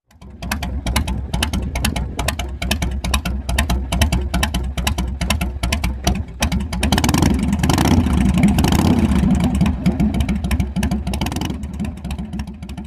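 Harley-Davidson Road Glide's V-twin engine running with a loping, pulsing exhaust beat, about four to five pulses a second. It revs up about seven seconds in and eases back down near the end.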